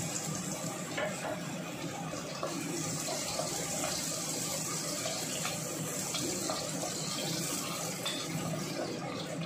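Onion frying in a hot wok, a steady sizzling hiss.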